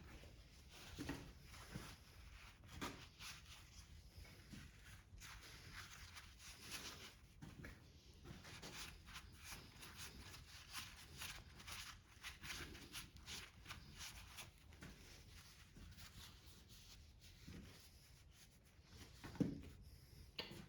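Faint, scattered clinks and scrapes of hand tools and metal parts being handled during small-engine disassembly, with one sharper knock near the end.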